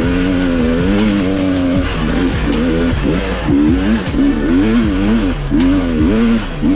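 Dirt bike engine revving up and down as the bike is ridden along a trail, its pitch rising and falling repeatedly over a low rumble.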